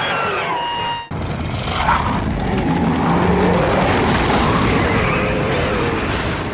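Cartoon sound effects: a loud, dense rumbling roar with music and sliding tones mixed in, broken by a sudden short cut about a second in where one clip gives way to the next.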